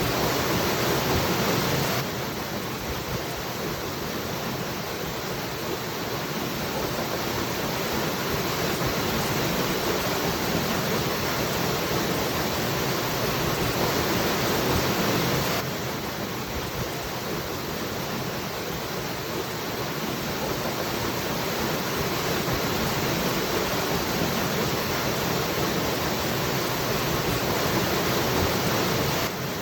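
Waterfall rushing as a steady, even hiss of falling water. The level drops suddenly a little about two seconds in and again about halfway through, each time creeping back up, as at the seam of a repeated recording.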